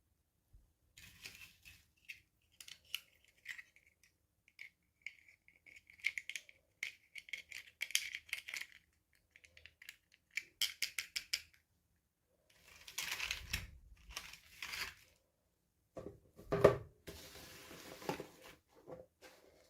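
Toy packaging being handled and opened: scattered plastic clicks and crinkling, then two stretches of rustling and tearing, with a sharp knock about two-thirds through.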